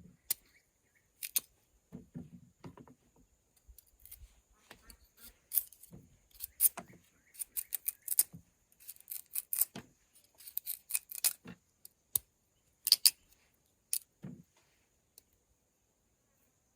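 Irregular sharp clicks and light knocks, as of small hard objects being handled, coming in clusters with short pauses and thinning out near the end.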